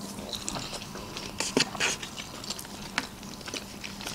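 Close-up eating sounds of hot sushi rolls being chewed: a scatter of small wet mouth clicks and smacks, with light taps of wooden chopsticks in the plastic takeout trays.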